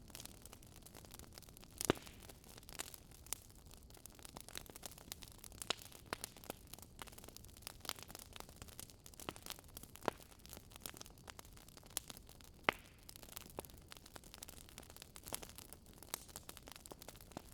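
Wood fire crackling: a faint steady hiss with irregular small pops and snaps, a couple of them louder, such as one about two seconds in.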